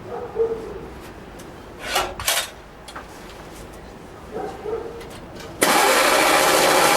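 1936 Hillman Minx's four-cylinder side-valve engine turning over on the starter. A loud, steady churning sets in suddenly about five and a half seconds in, after a few short knocks and clatters.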